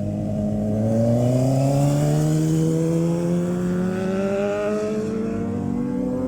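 Vehicle engine accelerating, its pitch rising steadily for about five seconds, over another engine running at a steady pitch.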